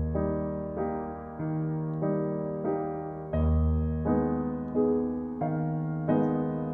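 Background piano music: a slow, gentle melody of struck notes about twice a second over sustained bass notes.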